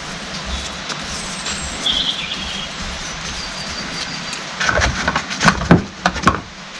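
Hydraulic pump parts being handled: a run of sharp clicks and knocks in the second half, over a steady hiss.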